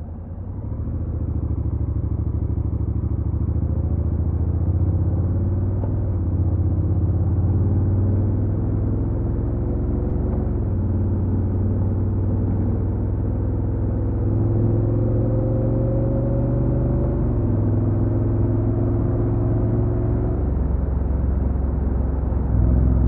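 Honda NC750X's parallel-twin engine pulling away and accelerating through the gears. Its pitch climbs steadily and drops back at each upshift, about ten and seventeen seconds in.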